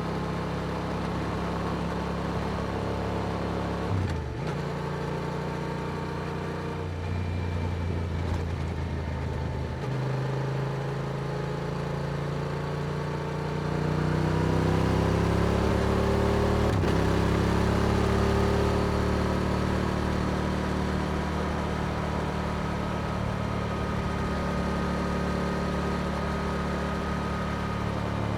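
Yamaha R7's parallel-twin engine through an Akrapovic exhaust while riding. The engine note shifts a few times in the first ten seconds, rises as the bike accelerates about halfway through, then settles into a steady cruise.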